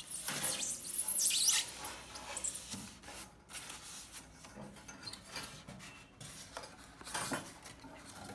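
Rustling and rubbing of packaging as accessories are handled and taken out of a new microwave oven, loudest in the first second and a half, with scattered smaller rustles after that and another brief burst near the end.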